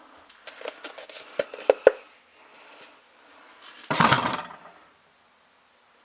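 Handling clatter: a run of sharp clicks and knocks, the loudest two close together just before the two-second mark, then a short loud rushing burst about four seconds in.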